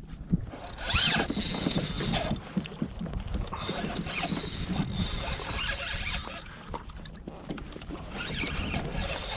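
Fishing kayak on open water: water splashing and knocking against the hull, with wind and a steady high whine running through most of it.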